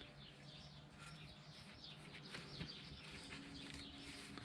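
Faint birds chirping in the background, many short quick chirps, over a low steady hum.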